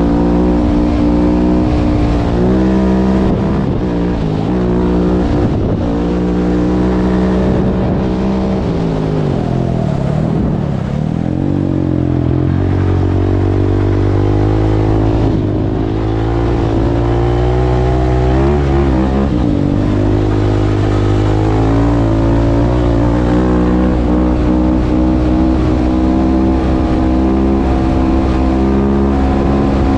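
Husqvarna 701 supermoto's single-cylinder four-stroke engine through an Akrapovic exhaust, under hard riding. It holds high revs, drops away to a low note about ten seconds in, then climbs back up and stays on the throttle.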